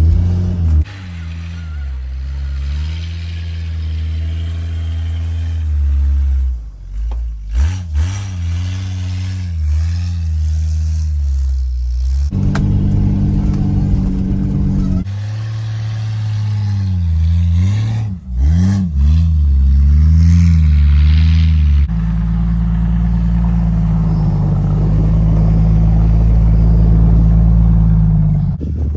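Jeep engine running under load through deep snow, its pitch rising and falling as it revs, with several abrupt changes and a steadier stretch near the end.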